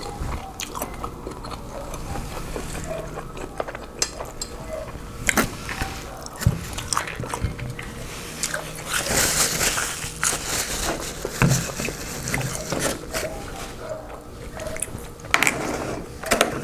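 Close-miked eating of a seafood boil: chewing and biting, with crunches and sharp clicks.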